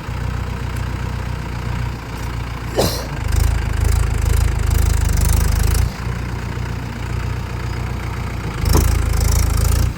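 Tractor diesel engine running steadily, revving harder for about three seconds starting about three seconds in and again near the end.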